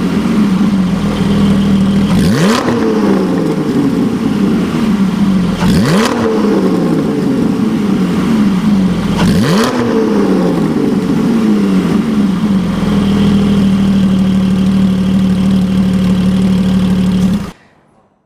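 Porsche 718 Spyder's naturally aspirated flat-six engine, through an aftermarket PowerCraft variable-valve exhaust, revved three times from idle. Each rev is a quick rise and a slower fall, about three and a half seconds apart. It then idles steadily and the sound cuts off suddenly near the end.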